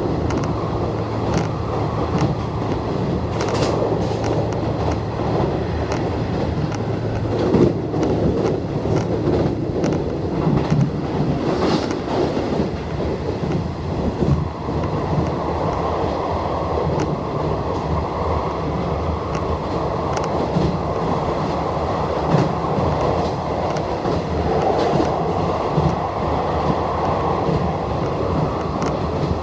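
Nishitetsu electric express train running along the line, heard from inside the passenger car: a steady rumble of wheels on rail with a few sharp clacks over rail joints. A low steady hum fades out about ten seconds in.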